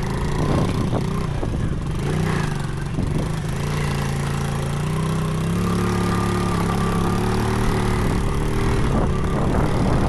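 Small single-cylinder pit bike engine running, revving up and down with its pitch rising and falling.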